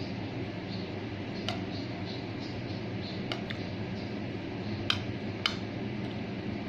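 Eating utensils clicking against a plate or bowl about five times, the two loudest about five seconds in, over a steady background hum.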